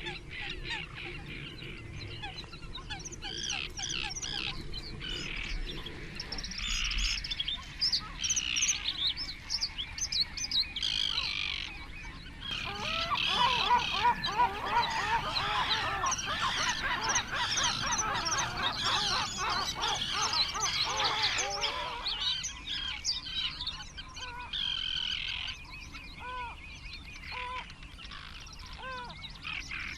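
Many wetland birds calling at once, their calls overlapping. The calling grows densest for about ten seconds in the middle, and the sound changes abruptly a few times.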